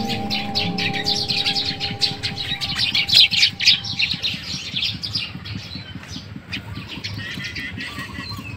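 Birds chirping rapidly and continuously, thinning to sparser, fainter calls about halfway through, over a held note of background music that fades out.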